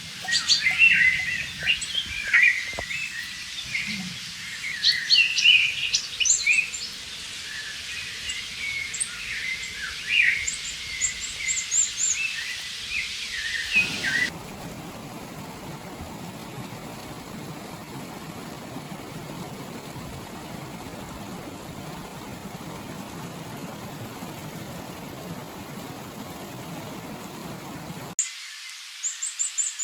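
Songbirds chirping and singing in many short, quick phrases over a faint background hiss. About halfway through, the birds give way abruptly to a steady rush of flowing river water, which cuts off sharply near the end as the birdsong returns.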